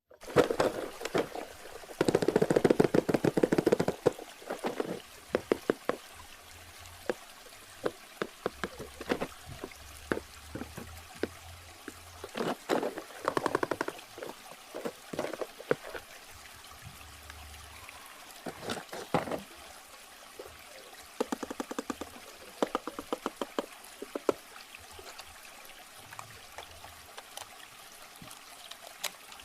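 Packaging being handled and unwrapped in crackly bursts of crinkling and rustling, heaviest about two to four seconds in and again in shorter spells later, over a faint steady background of trickling water.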